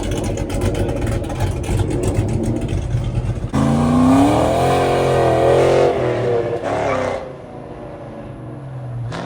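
Car engine running with a rapid pulse, suddenly revved about three and a half seconds in, rising in pitch, then dropping back to a quieter steady idle about seven seconds in.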